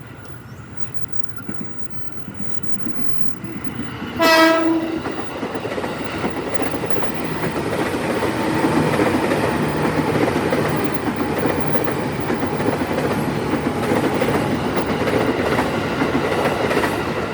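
Train passing close by: a short horn blast about four seconds in, then the loud, steady running noise and clatter of the wheels on the rails as the carriages go by.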